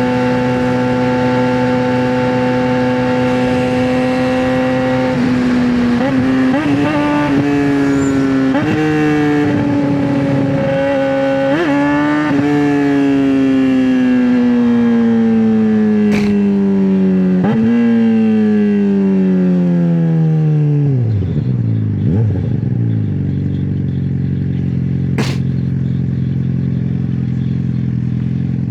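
Straight-piped 2009 Suzuki GSX-R600 inline-four engine. It holds a steady high pitch for about five seconds, then the revs jump up several times, each jump followed by a long, gradual fall in pitch. Near the end it drops to a steady low idle.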